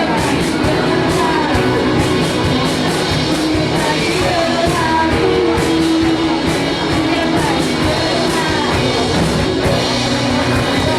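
A live rock band playing a song: drums, electric guitars, bass and keyboard together, steady and loud.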